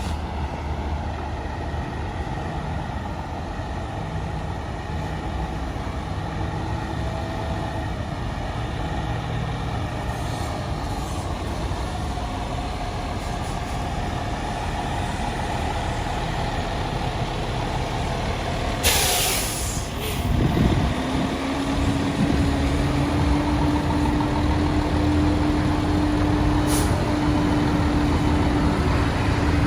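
Diesel engine of a Peterbilt 320 garbage truck idling steadily. About two-thirds of the way through, a loud hiss of air from the air brakes lasts about a second and is followed by a shorter hiss. A steady whine then sets in and climbs slightly, with another brief air hiss near the end.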